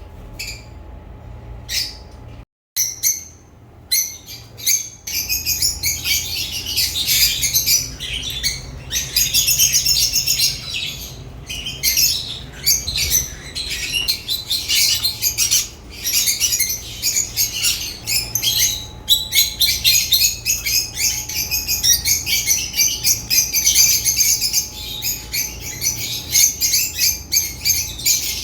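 African lovebirds chirping and chattering in rapid high calls: a few scattered chirps at first, then a dense, near-continuous chatter from about five seconds in.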